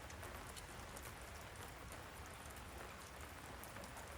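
Steady rain falling, with a scatter of small drop ticks.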